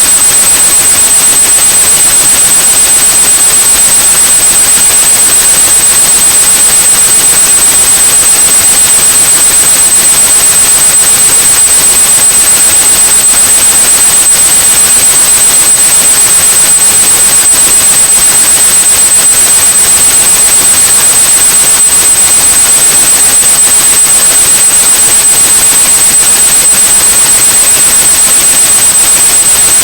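A steady high-pitched 8100 Hz sine tone over loud, even white noise: a synthetic tinnitus-masking sound.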